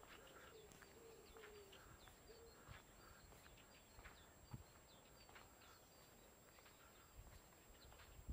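Faint birdsong: small birds repeating short high chirps, with a pigeon cooing low during the first two seconds.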